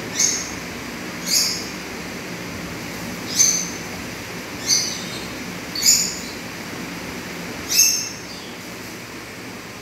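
A bird chirping: six short, high chirps, each falling slightly in pitch, spaced a second or two apart, over steady background noise.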